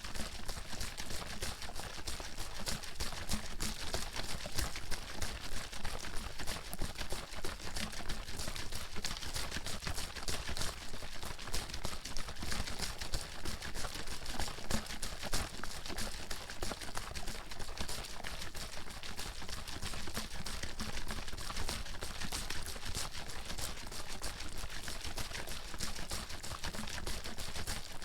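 Water bottle being shaken continuously, the water sloshing inside in a fast, steady clatter of many small splashes and knocks a second.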